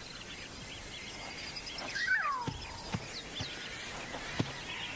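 Outdoor bush background with birds chirping in short, repeated notes. A louder call falls in pitch about two seconds in, and a few soft knocks follow.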